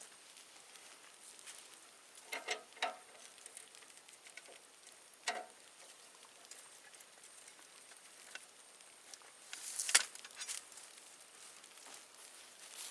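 A few scattered short knocks and clatters over a faint background hiss, the loudest about ten seconds in.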